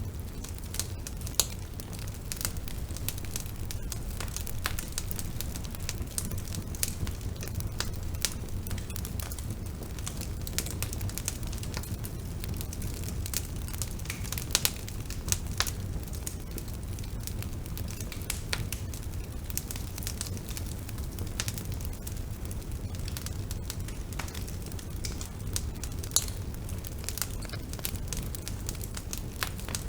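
Bonfire burning: a steady low rumble with frequent irregular crackles and sharp pops from the burning wood.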